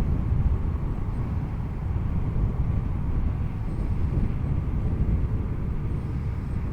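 Wind rumble on the camera's microphone while riding a 2020 Yamaha MT-09, with the bike's three-cylinder engine running underneath.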